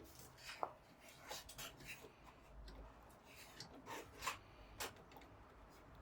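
Faint, scattered scrapes and light clicks of parts and tools being handled at a workbench, several small ticks a second at the busiest moments.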